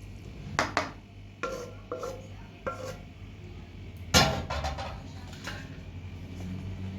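Hard objects clinking and knocking against each other, with a handful of separate knocks and then a loudest quick cluster of clatters about four seconds in. A steady low hum runs underneath.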